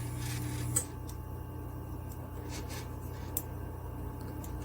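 Faint steady low hum with a small click about a second in, after which the hum drops lower; then quiet room tone with a few faint ticks.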